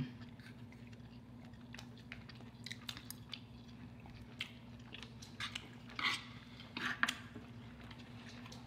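Close-miked eating sounds: chewing with scattered small clicks and crunches, and a couple of louder mouthfuls about six and seven seconds in, over a steady low hum.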